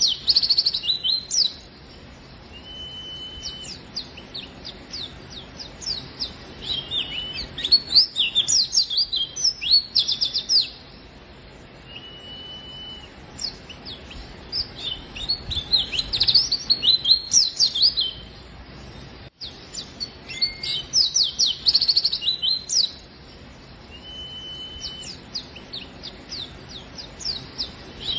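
White-eye (pleci) in full song: rapid bursts of high, quick twittering chirps coming every few seconds, with a short level whistle between some of the bursts.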